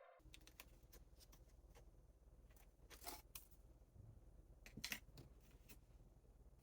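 Near silence with faint light clicks and taps from small wooden doll-house shingles being handled, two of them a little louder about three and five seconds in.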